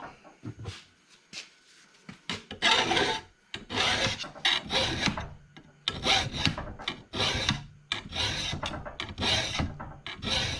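Hand file rasping across the edge of a rotary lawnmower blade in separate push strokes, about eight of them, starting a couple of seconds in after a few light clicks. The blade is being filed to knock down nicks and a rolled-over edge from hitting rocks.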